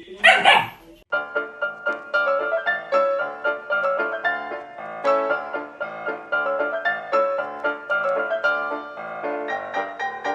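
A brief loud burst of sound, then from about a second in, piano music playing a run of quick notes.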